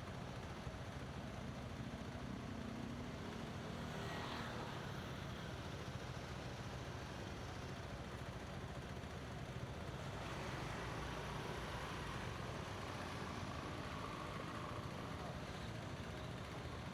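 A motorbike in motion: steady engine and road/wind noise, with a whine that falls in pitch about four seconds in and a higher engine tone from about ten seconds in.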